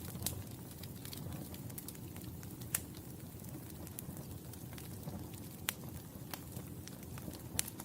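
Wood fire burning in a fireplace: a steady low rumble of flames with scattered crackles and four sharp pops, about a quarter second in, near three seconds, near six seconds and near the end.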